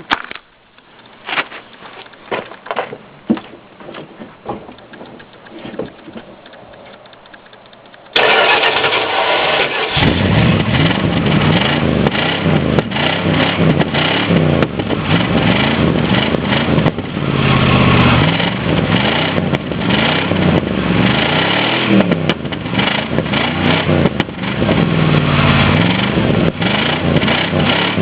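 A few knocks, then about eight seconds in a Dodge Ram 350 van's engine is cranked and starts. It runs loudly through an aftermarket Magnaflow cat-back exhaust and is revved up and down repeatedly.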